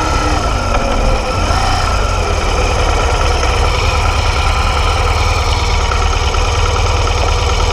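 BMW R 1200 GS flat-twin boxer engine idling steadily in neutral with the motorcycle standing still.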